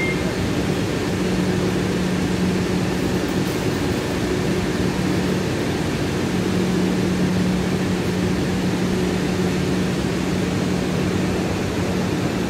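Heathrow Express electric train standing at the platform with its doors open: a steady hum and rushing noise from the idling train. A low hum tone fades briefly about five and a half seconds in, then returns.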